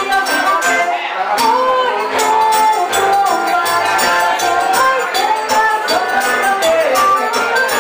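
Live forró band playing a driving, even rhythm: accordion, guitar, zabumba drum and jingling hand percussion, with a gliding melody line over them.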